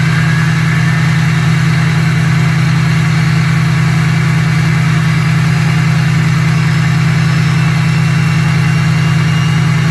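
LLY Duramax 6.6-litre V8 turbo-diesel idling steadily on its raised cold-weather high idle soon after a cold start in 16-degree weather, with a faint high whistle slowly rising in pitch.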